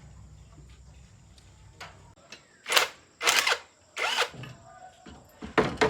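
A small power tool runs with a low, steady hum and stops about two seconds in. It is followed by several short, loud knocks and scrapes.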